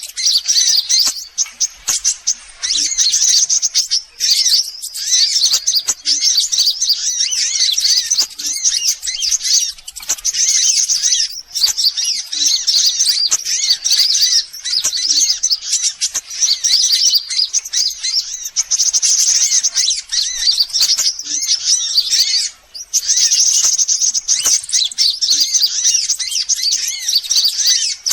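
Sunbird lure call: dense, rapid, high-pitched chirping and twittering songs running almost without pause, broken by a few short gaps.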